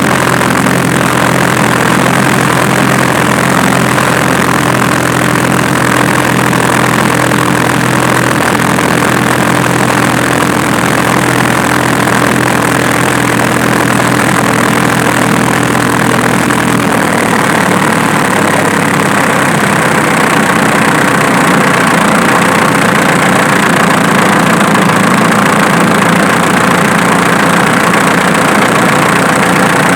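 Diesel engine idling steadily, with a shift in its low tone about 17 seconds in.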